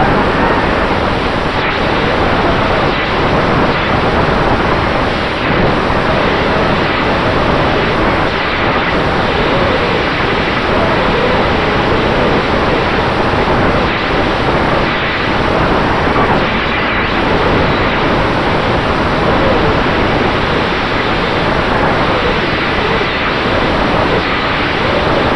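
FPV racing quadcopter's motors and propellers heard through the onboard camera microphone during flight: a loud, steady rushing roar with a faint wavering whine that shifts as the throttle changes.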